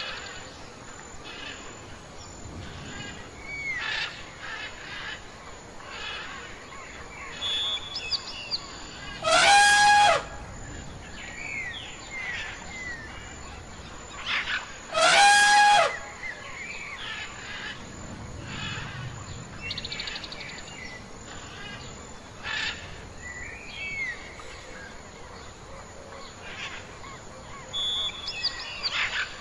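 Birds chirping and whistling. A loud, drawn-out call about a second long rings out twice, about a third of the way in and again about halfway.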